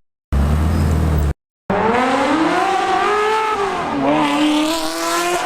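Ferrari 360's V8 accelerating hard, its note climbing, dipping at an upshift, then climbing again. A low engine drone comes before it, broken by two short dropouts.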